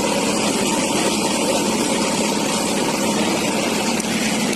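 A vehicle engine running at a steady drone, with no knocks or bangs.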